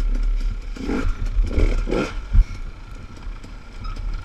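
Dirt bike engine running while riding a rough trail, with the pitch steady and a few louder surges about one to two seconds in. Short clicks and knocks from the bike jolting over the ground run under a deep rumble.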